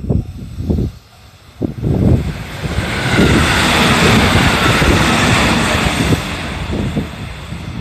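JR 313 series electric multiple unit passing at speed: a rushing of wheels on rail and air swells about two seconds in, stays loud for a few seconds, then fades near the end, over low irregular thuds.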